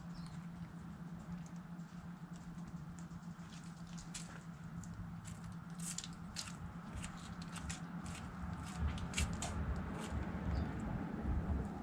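Chickens pecking at food scraps: a scatter of quick, sharp taps and clicks that thickens in the middle, over a low steady hum.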